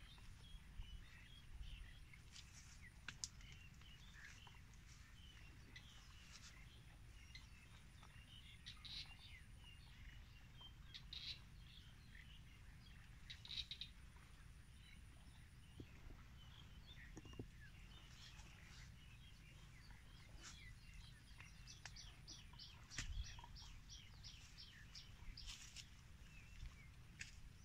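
Faint birdsong: scattered short chirps from small birds, with a quick run of repeated notes near the end, over a low wind rumble.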